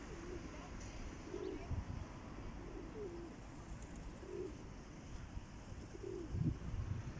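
Pigeons cooing: repeated short, low coos about once a second, with a low thump near the end.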